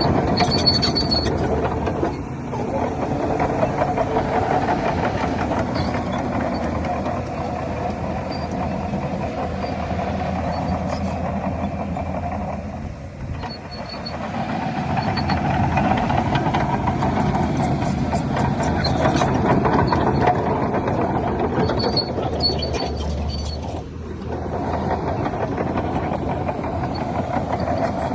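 Shantui DH17C3 crawler bulldozer's diesel engine running steadily under load, with short high squeaks at times and two brief dips in level.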